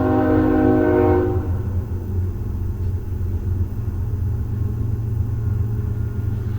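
Freight or commuter train horn blowing a held multi-tone chord that cuts off about a second in, followed by the steady low rumble of the train passing.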